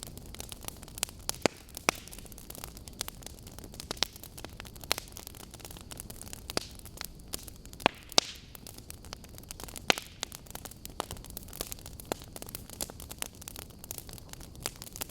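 Burning wood logs crackling, with irregular sharp pops and snaps, a couple of them louder, over a low steady hiss of the fire.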